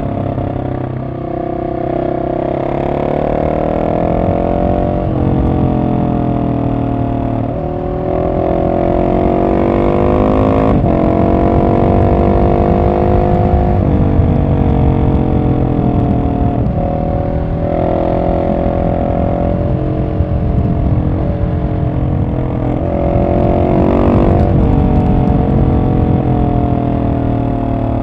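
Husqvarna 701 SM's single-cylinder engine running loud through an Arrow exhaust, de-catted with the dB killer in, while riding. The revs climb and drop again and again, with sudden breaks at the gear changes and on closing the throttle.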